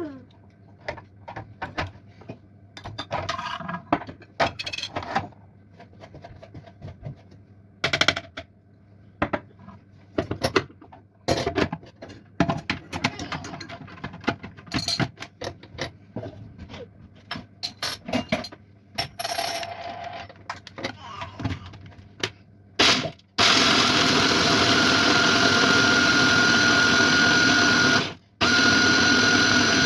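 Small hard items clinking and clattering in kitchenware. About three-quarters of the way in, a countertop electric blender motor starts and runs loud and steady with a high whine, cuts out briefly near the end, then starts again.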